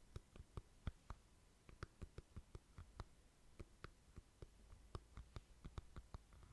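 Faint ASMR mouth sounds close to the microphone: a run of short, soft clicks of the tongue and lips, several a second at an uneven pace.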